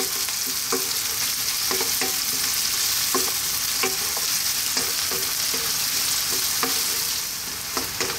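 Onion and garlic sizzling hard in hot olive oil in a wok over high heat, with a wooden spatula scraping and tapping the pan about once a second as they are stirred.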